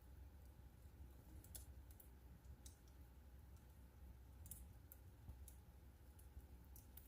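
Fireplace wood fire crackling faintly: sparse, irregularly spaced sharp snaps and pops over a low steady rumble.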